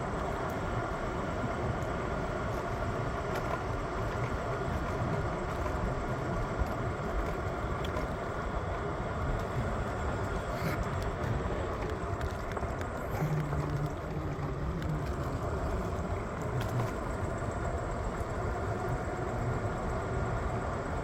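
PATH train running, a steady rumble with faint clicks.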